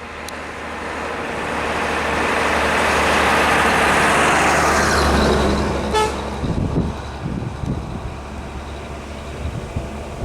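A road vehicle passing close by, its noise swelling to a peak and then fading, with a short horn toot about six seconds in, followed by low rumbling.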